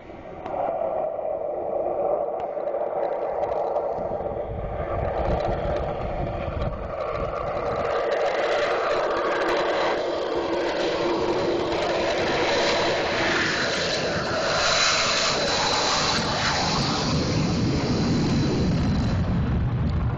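F-16 fighter jet engines running at takeoff power: loud, steady jet noise that grows brighter, with a thin high whine, from about twelve seconds in.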